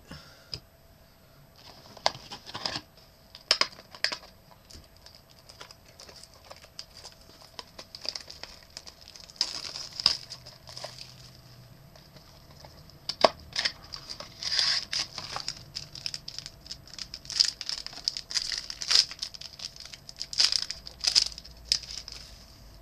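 Trading-card packaging and cards being handled: irregular crinkling and rustling with sharp clicks, in short flurries.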